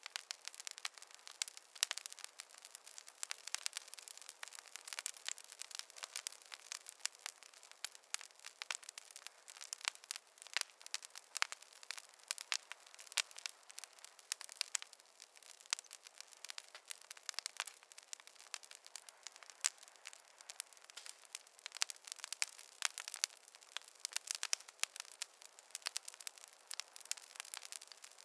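Wood fire crackling: dense, irregular sharp pops and snaps from burning logs over a soft steady hiss, with no low rumble.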